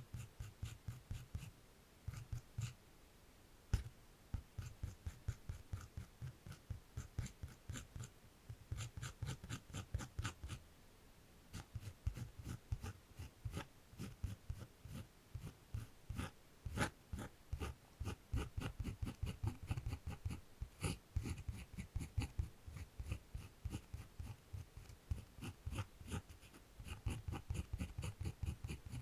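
Drawing strokes on paper: quick runs of scratchy strokes, several a second, broken by a few short pauses.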